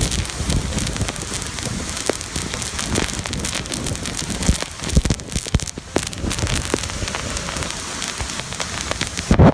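Waterfall roaring, a steady, loud rush of falling water, with a few sharp knocks breaking through, the loudest near the end.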